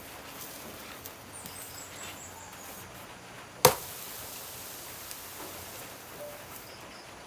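A single sharp strike, by far the loudest sound, about three and a half seconds in, dying away quickly, over a faint background of small clicks and rustling.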